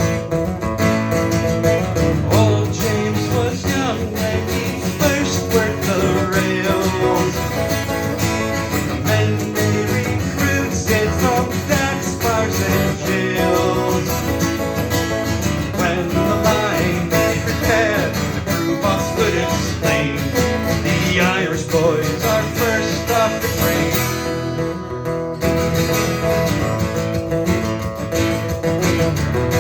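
Live acoustic rock band playing the instrumental intro of a song: steadily strummed acoustic guitar with a melodic line played over it.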